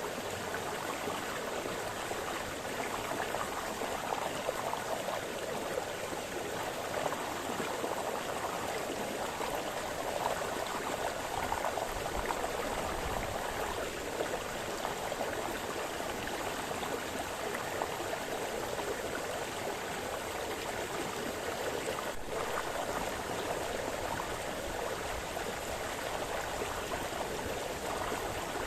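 Small brook splashing and burbling steadily over stones.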